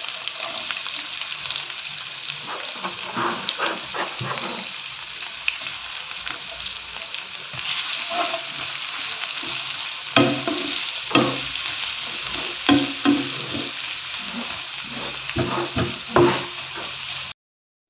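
Chopped onions sizzling in hot oil in a frying pan, with a cooking utensil scraping and knocking against the pan as they are stirred at irregular intervals. The sound breaks off briefly near the end.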